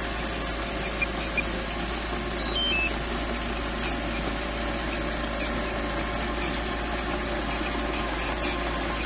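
Small bulldozer's engine running steadily, with two sharp knocks about a second in and a brief high squeal near three seconds.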